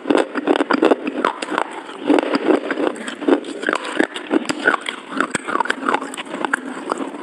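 Close-miked chewing of soft pineapple-and-whipped-cream cake: wet mouth sounds and lip smacks, with many short clicks in quick, irregular succession.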